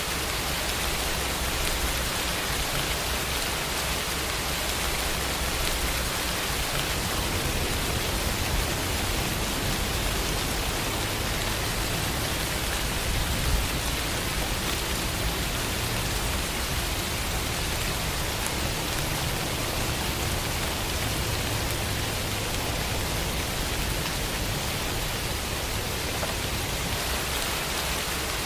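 Steady, even rain falling on a surface, with a low rumble underneath and one brief sharp drip about halfway through.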